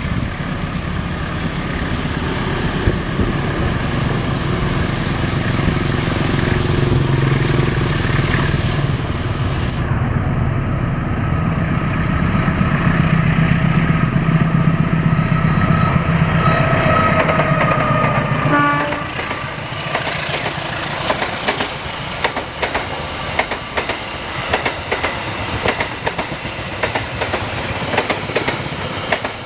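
GE diesel-electric passenger locomotive drawing near and passing with a steady engine drone, sounding its horn for several seconds, the pitch dropping slightly as it goes by. About two-thirds of the way through the engine sound stops suddenly, and passenger coaches roll past with a rapid clatter of wheels over the rail joints.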